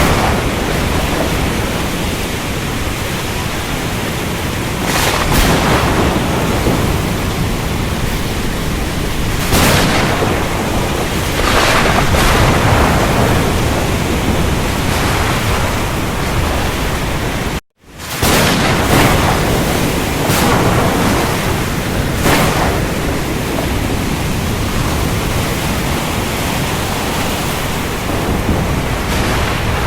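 Storm at sea: heavy rain and surf as a steady, dense rushing noise that swells louder every few seconds, as with breaking waves or rolls of thunder. The sound cuts out for a split second just past halfway, then comes straight back.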